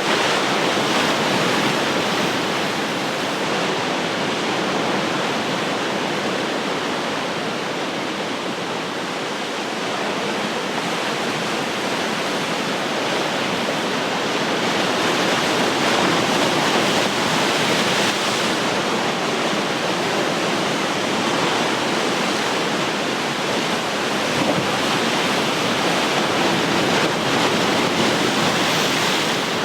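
Ocean surf: waves breaking and washing on the shore in a continuous rush that swells and eases every several seconds.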